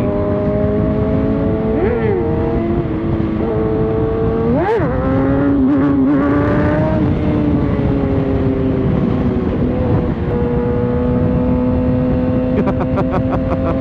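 Inline-four sport bike engine running at steady revs under a constant wind rush. About five seconds in the revs swoop sharply up and drop back, and after about ten seconds the engine pulls with slowly rising pitch.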